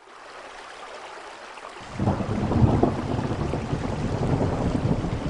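Steady rain hiss fading in, then a loud rolling rumble of thunder joining about two seconds in and continuing over the rain.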